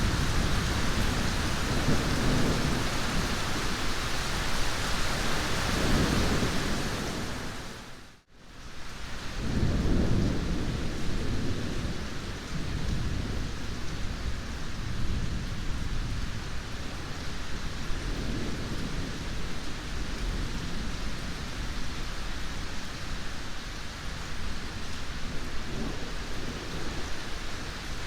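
Heavy rain falling steadily, with low rolling thunder rumbling in the first several seconds and again shortly after. About eight seconds in, the sound briefly fades out and swells back in, then the rain continues with only faint rumbles.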